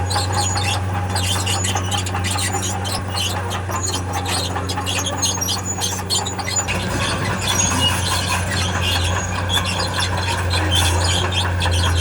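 Heavy tracked earthmover's steel crawler tracks squealing and clicking over the steady hum of its diesel engine, which gets a little louder about halfway through.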